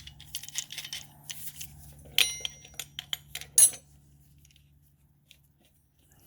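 Metal parts and tools being handled: scattered light clinks, a ringing metallic clink about two seconds in and a sharp, louder click about a second later, then quiet.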